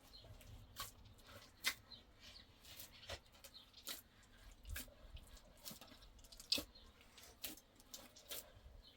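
Faint, sharp clicks or taps, irregular but about one a second, two of them a little louder than the rest.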